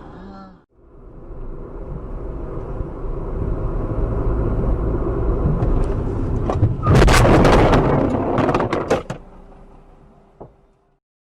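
Vehicle running noise growing steadily louder, then a car crash about seven seconds in: a loud impact followed by about two seconds of crunching and clattering hits, fading out afterwards.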